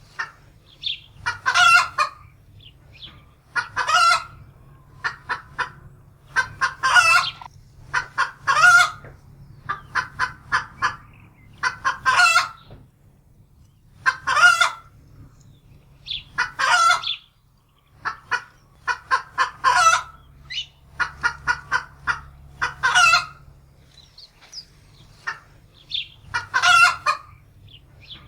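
Domestic hen cackling in alarm: runs of quick clucks that each end in a longer drawn-out squawk, repeating about every two seconds.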